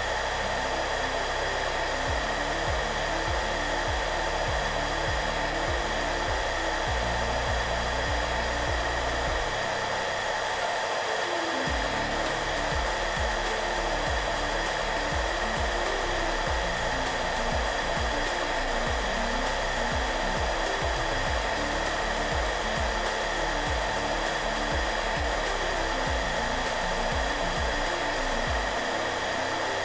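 Hair dryer running steadily, an even blowing hiss with a constant whine in it. Soft background music plays low notes underneath, and its bass drops out briefly about ten seconds in.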